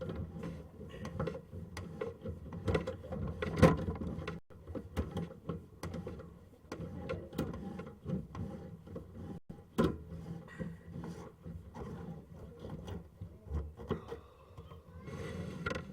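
Sewer-scope inspection camera cable being handled: irregular knocks, clicks and rattling over a steady low hum.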